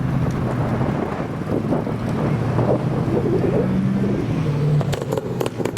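A car engine running at low revs as the car pulls away slowly, its pitch shifting a little, with wind buffeting the microphone. A few sharp clicks come near the end.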